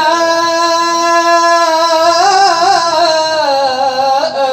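A male Quran reciter holding the long drawn-out vowel of 'yā' in melodic tajweed chant. One sustained high note carries a wavering ornament in the middle and slides down in pitch near the end.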